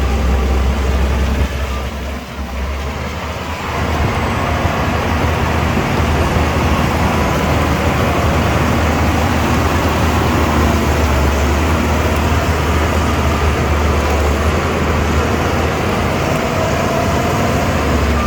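Diesel engine of heavy earthmoving machinery running with a deep, steady drone. It eases off about a second and a half in and comes back up about two seconds later.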